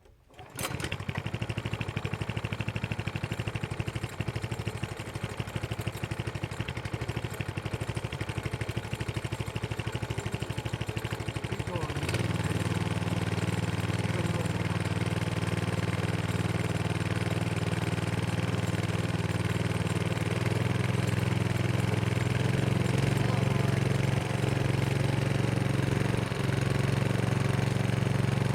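Victor diesel engine driving a Keystone electric generator, coming in suddenly about half a second in and running with a rapid, even beat. About twelve seconds in it steps up to a louder, deeper run.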